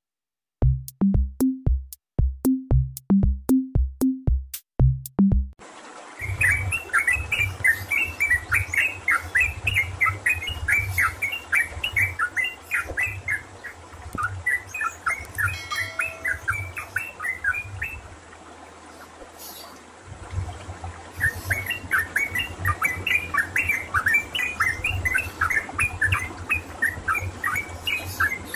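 About five seconds of an intro jingle with evenly spaced drum-like beats, then a caged yellow-vented bulbul (trucukan) singing loud, rapid runs of short chirps over a low throbbing rumble. The song thins out for a few seconds in the middle and then starts up again.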